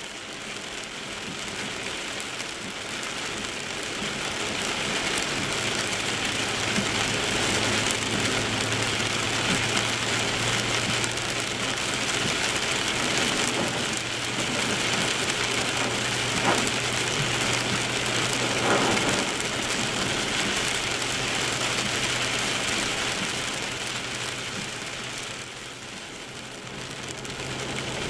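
Heavy rain and tyre spray hissing around a Porsche Boxster driving on a wet road, with a steady low hum from the car. The rain grows louder over the first few seconds and eases briefly near the end.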